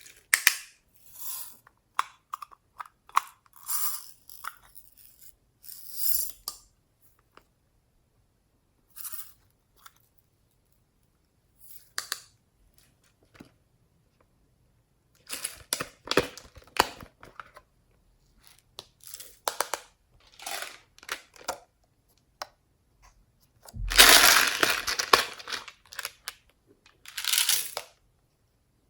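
Slime being squeezed, poked and stretched by hand, giving short irregular bursts of sticky crackling and popping with quiet gaps between, and a longer, louder run of crackling a little past three quarters of the way through.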